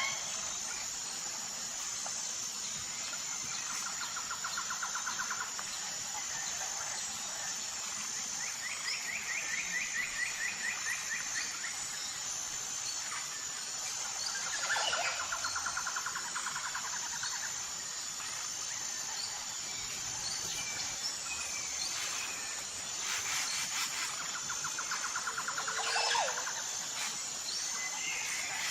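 Tropical jungle ambience: birds calling in rapid trills every few seconds, a couple of them ending in a falling swoop, over a steady high-pitched hum.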